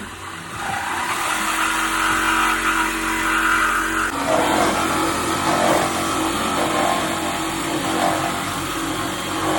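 Power cutting tool running steadily as it cuts through a steel exhaust pipe under the car, with a change in its tone about four seconds in.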